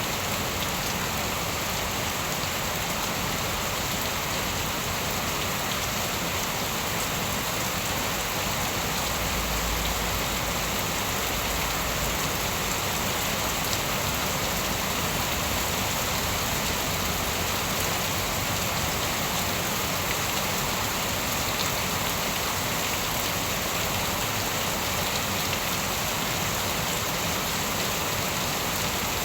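Steady, heavy rain falling on surfaces as a continuous dense hiss of drops, with a brief low rumble about ten seconds in.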